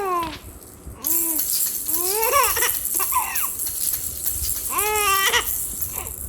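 A four-month-old baby laughing out loud in short repeated bursts, each rising then falling in pitch, while a baby rattle is shaken; the rattle's fine hiss comes in about a second in.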